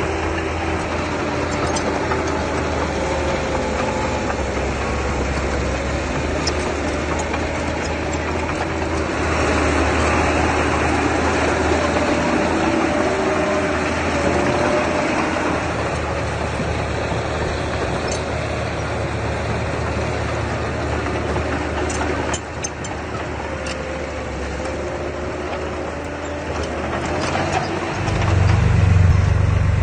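Diesel engine of earthmoving machinery running steadily, with a low rumble and a wavering whine. Near the end a deeper engine sound swells louder.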